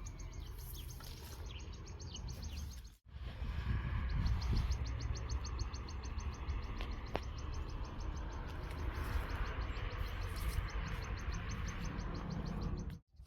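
Outdoor field ambience: wind rumbling on the microphone under an insect's rapid, evenly pulsing chirp, with a few bird chirps in the first seconds.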